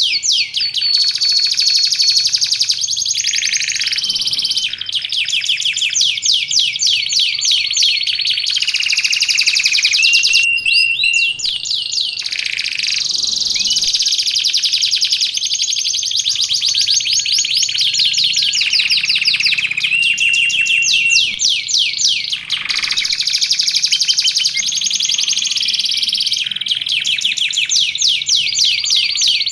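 Domestic canary singing non-stop: long, very fast trills of high notes, one run after another, each changing to a new pattern every few seconds.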